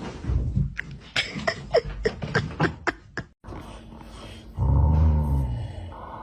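A dog making a quick run of short yips and whimpers, then a low growl about two-thirds of the way in.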